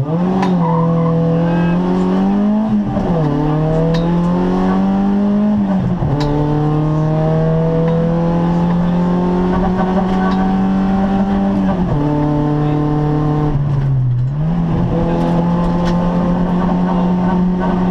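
Opel Astra GSi rally car's four-cylinder engine heard from inside the cabin under hard acceleration. The revs climb and drop sharply at upshifts about three and six seconds in, then hold fairly steady with brief dips around twelve and fourteen seconds, falling away near the end.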